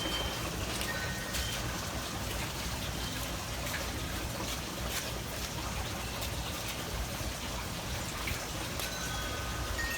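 Wind chimes ringing a few clear tones, about a second in and again near the end, over a steady background hiss.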